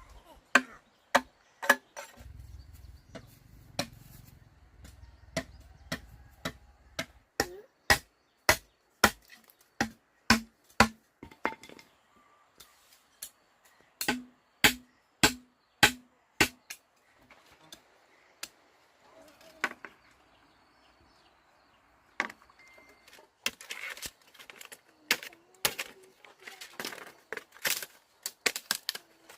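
A hand tool striking a hard material over and over, chopping or hammering. The blows come about one a second for a long stretch, stop for a few seconds, then come faster and more irregularly in a cluster near the end.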